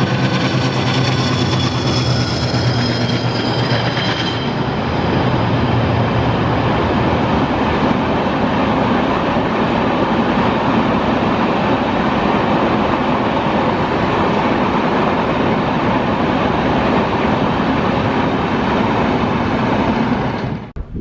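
An Indian Railways diesel-hauled train passing close by. The locomotive's engine drone is heard first, with high ringing tones that fade about four seconds in. Then comes a long steady rumble and rush of coaches rolling over the rails, which cuts off suddenly near the end.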